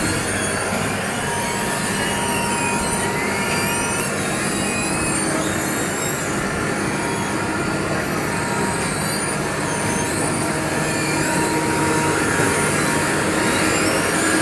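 Asphalt paver's diesel engine running steadily under load, with an even mechanical drone and a held whine.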